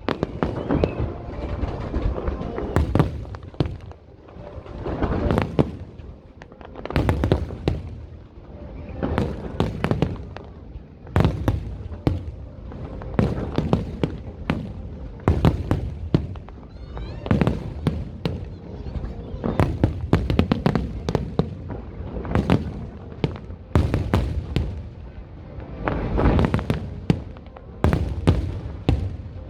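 Fireworks display going off in a rapid, continuous barrage: many sharp bangs and crackles a second, with deep booms echoing between them.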